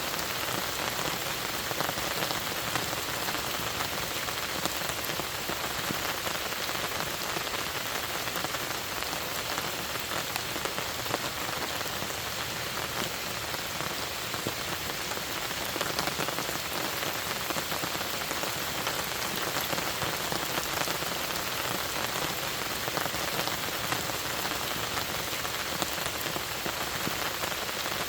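Steady rain falling on a lake, a dense hiss of many small drop patters.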